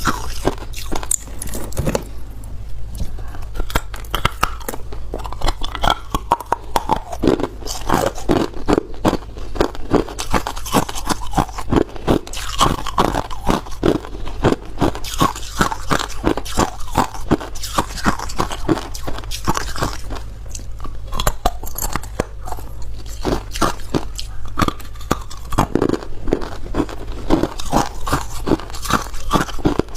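Ice being bitten and chewed close to the microphone: a continuous run of sharp crunches, several a second.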